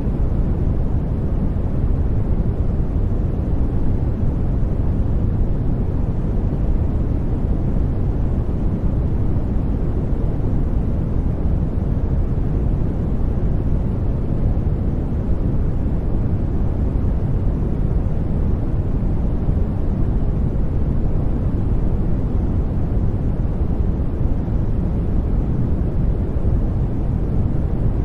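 Steady sleep-aid noise track: an even, unchanging hiss weighted toward the low end, deep and rumbling rather than bright.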